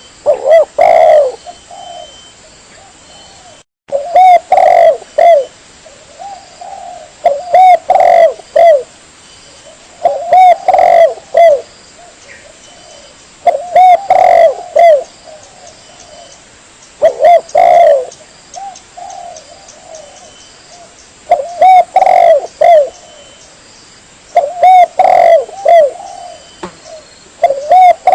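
Spotted dove (tekukur) cooing, a lure call for trapping doves: phrases of a few low coos repeated about every three and a half seconds.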